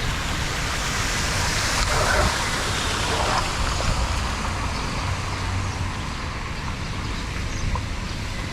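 Floodwater rushing steadily into a street drain, with wind rumbling on the microphone.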